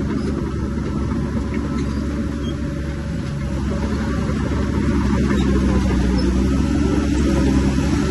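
Bulldozer's heavy diesel engine running steadily under load, growing a little louder about five seconds in.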